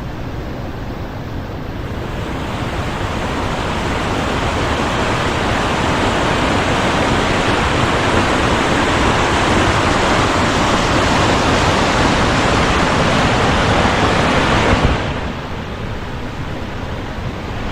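Steady rush of fast-flowing mountain stream water cascading over rocks. It grows louder from about two seconds in and drops suddenly about fifteen seconds in.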